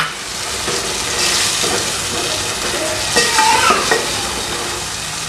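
Onions, tomatoes, capsicum and garlic sizzling in an aluminium pot while a wooden spoon stirs them. There is a steady frying hiss, with a few louder scrapes of the spoon about three to four seconds in.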